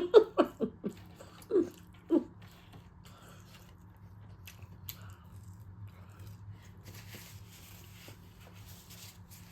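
Close-miked eating: chewing and mouth clicks, with a few short hummed vocal sounds in the first two seconds and a soft rustle from about seven to nine seconds in.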